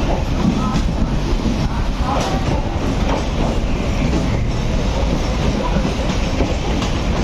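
Howrah–Patna Janshatabdi Express passenger train rolling along at low speed, a steady heavy rumble with scattered clicks of wheels passing over rail joints.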